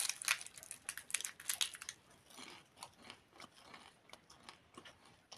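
A person biting and chewing a crisp toasted bread snack. Dense crunching in the first two seconds gives way to softer, intermittent chewing crackles.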